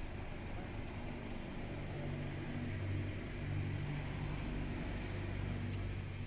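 Passenger car's engine running at low speed as the car drives past, heard from outside: a steady low hum, a little louder around the middle.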